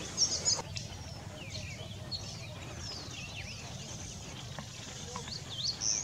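Small birds chirping and calling: many short, high chirps and quick sliding whistles, with a louder cluster of chirps just after the start, over a steady low background rumble.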